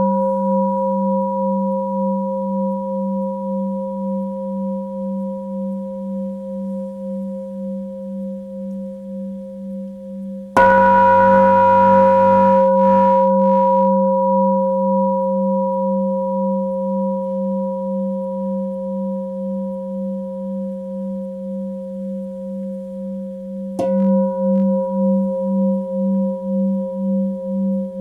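Tibetan singing bowl struck and left ringing, its deep hum wavering in a slow pulse as it fades. It is struck hard again about ten seconds in and more lightly near the end, each strike renewing the ring.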